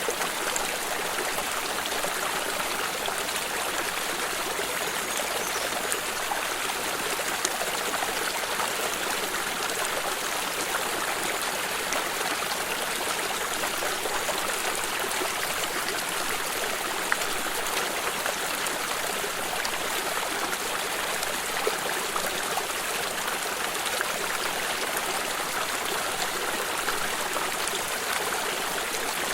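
Small stream of water running and trickling, a steady rushing babble with faint splashes.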